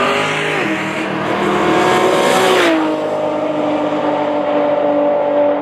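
Barra-powered Ford Cortina's straight-six engine accelerating hard down a drag strip under full power, its pitch dropping at gear changes about half a second and near three seconds in, then holding steady as the car pulls away.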